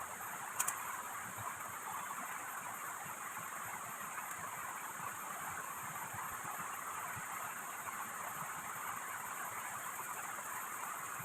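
Heavy rain falling in a steady hiss, with scattered drops ticking. There are two sharp clicks about half a second in.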